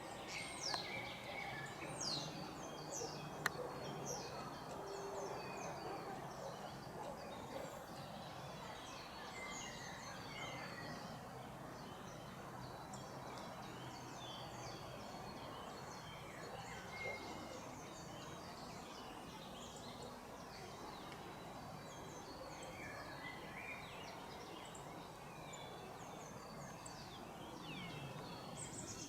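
Several small songbirds chirping and calling, short rapid notes scattered throughout over a faint steady background hiss. A single sharp click about three and a half seconds in.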